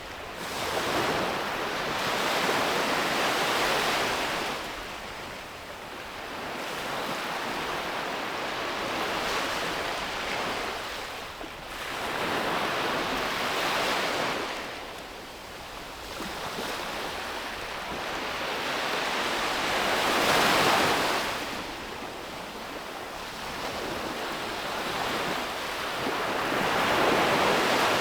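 Sea waves breaking and washing up a beach, the surf swelling and falling away in slow surges every five to seven seconds.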